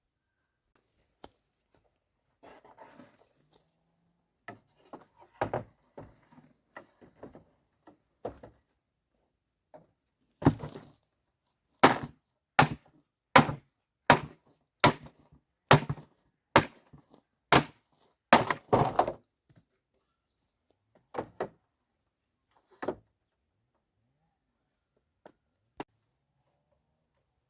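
Blows on wood: a run of about ten sharp strikes a little under a second apart, with scattered lighter knocks and taps before and after.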